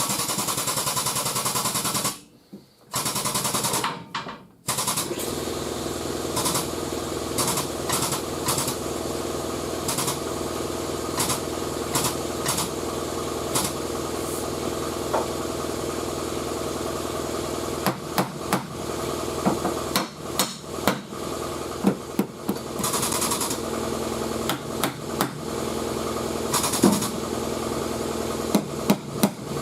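A frame machine pulls on a car's quarter panel, its pump running steadily after a rapid chatter in the first seconds. Single hammer blows strike the crowned sheet metal to relieve the pressure while it is under pull, coming more often in the second half.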